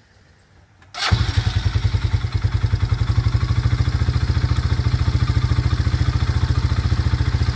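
ATV engine starting about a second in, catching at once, then idling steadily with a fast, even pulse.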